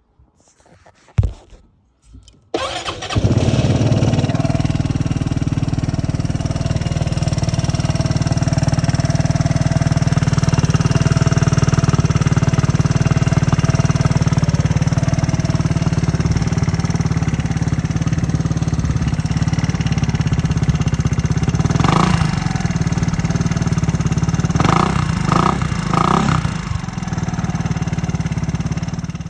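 Royal Alloy scooter's single-cylinder four-stroke engine through an aftermarket performance exhaust. It is started after a click, idles steadily, is revved once and then three times in quick succession, and is switched off near the end.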